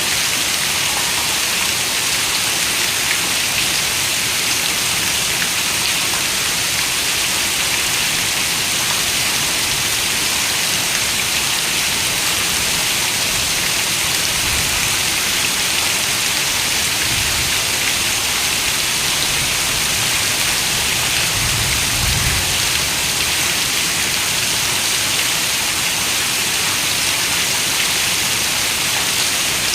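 Steady rain falling, an even hiss of many drops. A few soft low rumbles swell under it about halfway through.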